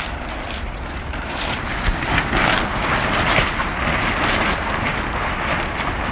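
Strong wind rushing and buffeting the microphone, with irregular sharp crackles and snaps on top.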